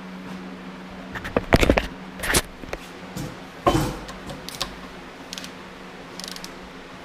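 Metal tools and engine parts clinking and knocking on a workbench during engine assembly: a quick run of clinks about a second in, a heavier knock around the middle, then a few lighter taps, over a steady low hum.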